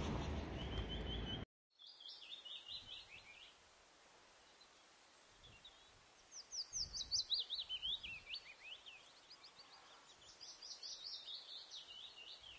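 A loud rushing noise cuts off abruptly just over a second in. Birdsong follows: three runs of quick chirps, each falling in pitch, the middle run the loudest.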